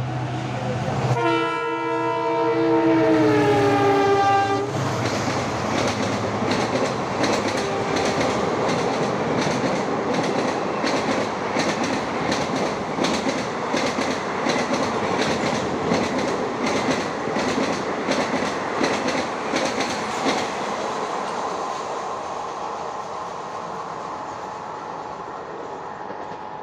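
A passenger train runs through a station at speed. The locomotive's horn sounds for about three seconds and drops in pitch as it passes. The coaches then rattle by with rhythmic clicking of wheels over the rail joints, fading away after about twenty seconds.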